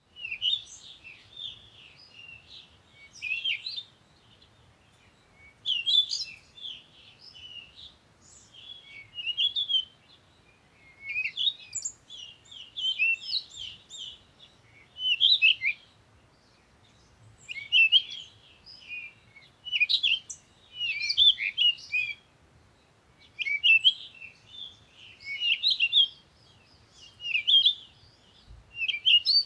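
Songbird singing: phrases of quick high chirps and trills, a new phrase every two to three seconds with short pauses between.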